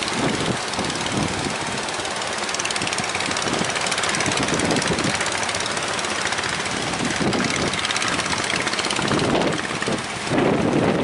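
Speedboat engine running steadily under way, with strong wind buffeting the microphone; about ten seconds in the engine's higher sound drops away and wind noise takes over.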